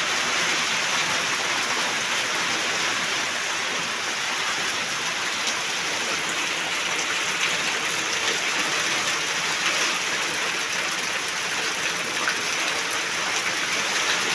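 Steady heavy rain falling and pattering on surfaces, with occasional sharper drop ticks.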